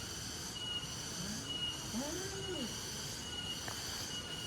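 Insects calling: a short high chirp repeats about once a second over a steady high-pitched buzz. About two seconds in there is a brief low rising-and-falling sound.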